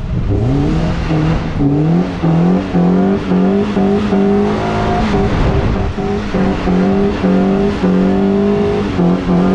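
Swapped Fiat Cronos 1.3 four-cylinder engine in a Fiat 1500 revving hard near the top of its range while the rear-drive car is slid on loose sand; the revs climb in the first half second, then hold high with repeated short dips and rises as the throttle is worked. Gravel and sand spraying from the spinning rear tyres goes along with it.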